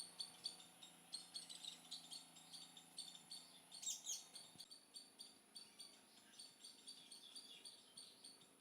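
Faint bird chirping: short high chirps repeating about two or three times a second, with one louder, longer call about four seconds in.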